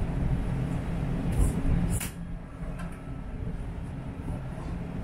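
Diesel railcar running, heard from inside the carriage: a steady low engine drone and rumble, with two sharp clicks about one and a half and two seconds in.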